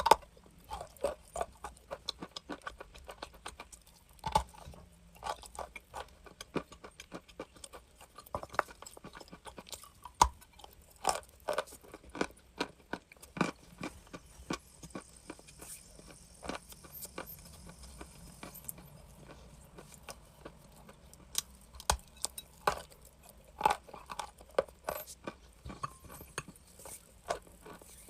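A person biting and chewing crunchy chalk close to the microphone: sharp, irregular crunches, coming in quick clusters with short pauses between bites.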